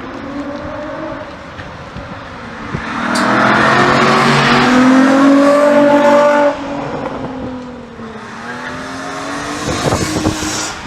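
Sports car engines on a race circuit: one car passes close under power, its engine note loudest for about three seconds before it drops away abruptly, then another car approaches, growing louder near the end.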